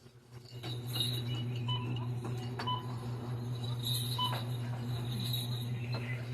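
Shop ambience: a steady low hum with several short, high electronic beeps and a few light clinks.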